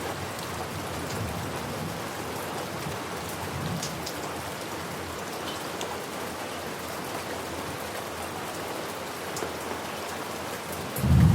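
Steady rain falling on surfaces. Near the end comes a short, deep rumble of thunder, the loudest moment.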